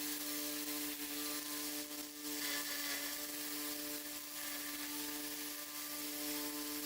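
Electric bench power tool of the kind used for knife sanding and polishing, running steadily: a constant motor hum with a hiss over it.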